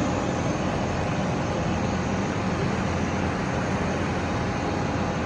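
Jet airliner engines running with a steady, even noise and a few faint steady whining tones.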